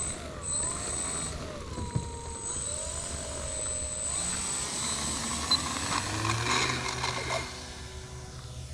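RC model Cessna 182's motor and propeller whining in flight, the pitch wavering up and down as the throttle and the plane's passes change.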